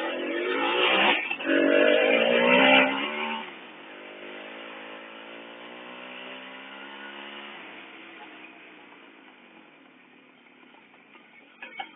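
Voskhod 3M motorcycle's single-cylinder two-stroke engine, revving loudly for about three seconds, then running at a steadier note that fades away as the bike moves off. A couple of sharp clicks near the end.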